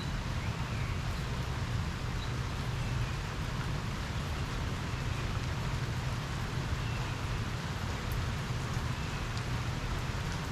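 Steady rain falling during a thunderstorm: a constant even hiss with a steady low rumble underneath.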